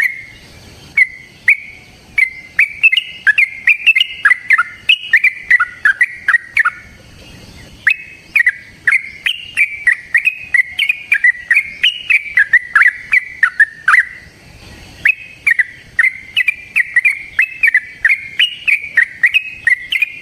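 Yellow-vented bulbul (trucukan) singing long, rapid runs of short whistled notes that sweep up and down in pitch. The song comes in bouts of several seconds broken by pauses of about a second.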